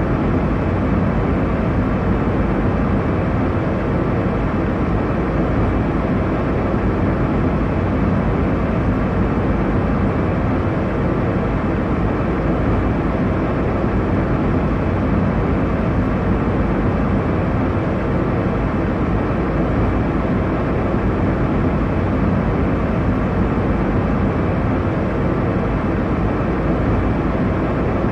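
Airliner cabin noise: a steady, deep rushing drone of engines and airflow in flight, unchanging throughout.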